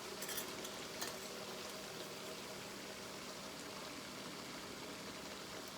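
Chicken karahi sauce simmering steadily in the pot, with a few light clicks in the first second.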